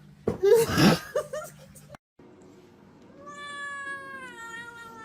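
Domestic cat meowing. A loud, harsh meow comes near the start, then a long drawn-out yowl slowly falls in pitch toward the end.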